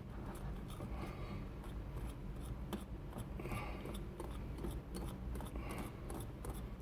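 A whisk stirring milk into banana nut bread batter in a bowl: a fast, continuous run of scraping and clicking strokes.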